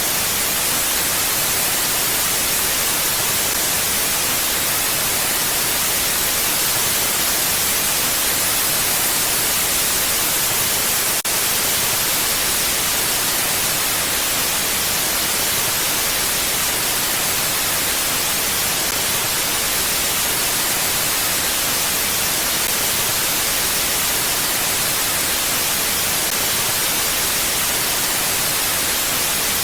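Steady, even hiss of mountain wind, strongest in the high end and without gusts or swells. A faint click sounds about eleven seconds in.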